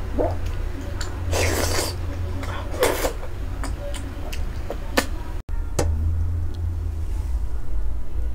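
Close-miked eating sounds: wet chewing and lip smacks with a few sharp clicks, over a steady low hum.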